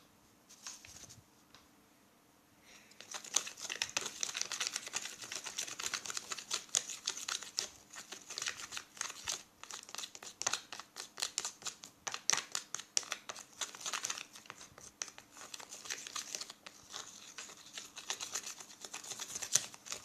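Sticky homemade shampoo-and-salt slime being stirred and squished by hand, making rapid wet crackling and clicking sounds that start about three seconds in and go on with brief pauses.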